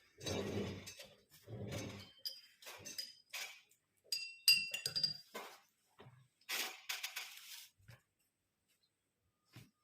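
Glass items clinking and knocking against each other about a dozen times, a few of the clinks ringing briefly, before a quiet pause near the end.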